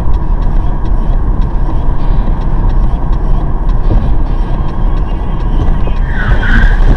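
Steady low rumble of a car's engine and road noise, picked up inside the car by a dash cam. A brief higher-pitched tone sounds near the end.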